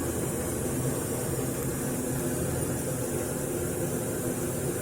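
Steady mechanical hum with an even hiss, from a running motor.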